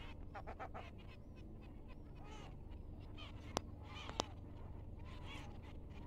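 Birds calling and chirping in short, wavering notes. Two sharp clicks come a little over half a second apart near the middle.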